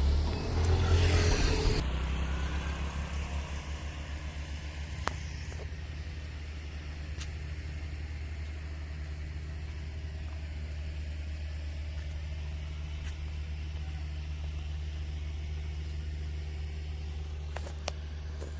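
An engine running steadily with a low drone, after a louder rushing in the first two seconds; a few sharp clicks stand out over it.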